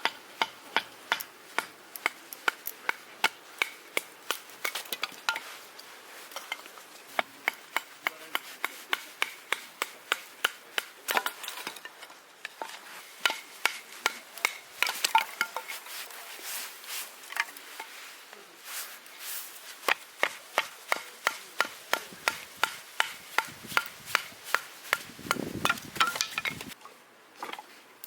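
Firewood being split by hand: a long, even run of sharp wooden knocks, about two a second, with a few short pauses. Near the end comes a duller, lower knocking before it stops.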